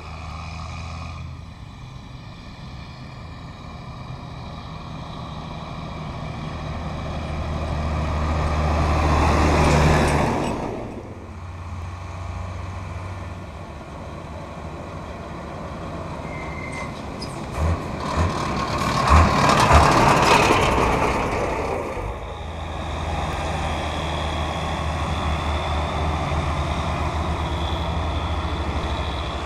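Heavy diesel farm vehicles driving past, the engine sound swelling and fading twice, with the first passing about ten seconds in and the second about twenty seconds in. A few short low thumps come just before the second pass.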